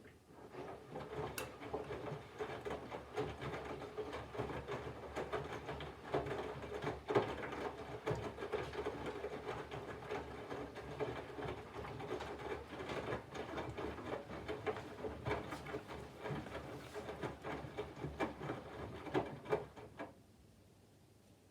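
Candy GVF4 front-loading washing machine turning its drum during the water-heating phase of the wash: a steady motor hum with wet laundry tumbling and many small knocks and splashes. It starts at once and stops about twenty seconds in, a single tumble before the drum rests.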